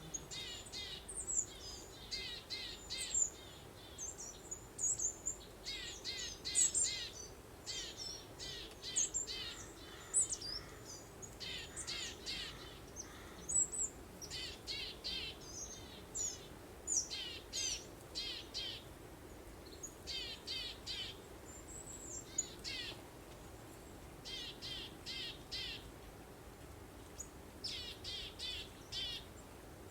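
Songbirds singing: quick runs of short, high, down-slurred chirps, repeated every second or two, over a faint steady background.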